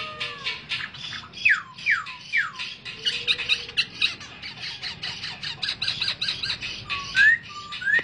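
Caged birds calling: a fast, even run of harsh chattering notes, about six a second, with three clear falling whistles about a second and a half in and short rising whistles near the end.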